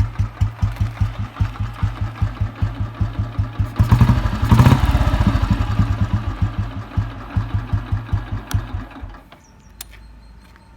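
Royal Enfield Bullet 350's single-cylinder cast-iron engine thumping at idle through an Indori exhaust, about five beats a second. About four seconds in it gives a brief, louder rev, settles back to idle, and stops about nine seconds in.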